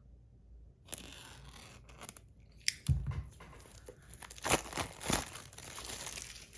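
Packaging being torn open by hand: a rustling, crinkling tear from about a second in, with several sharp clicks along the way.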